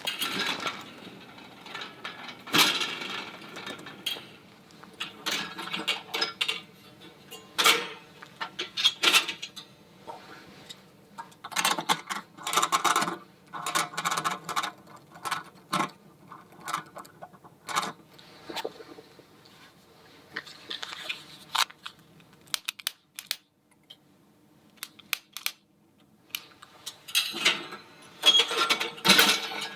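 Small hard objects being handled by hand: irregular clicks, clinks and knocks with short clattering runs. There is a quieter stretch about two-thirds of the way through, then a busier clatter near the end.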